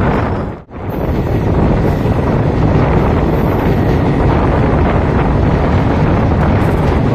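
Wind rushing over the microphone from a moving express passenger train, over the steady noise of the train running. The sound drops out briefly under a second in.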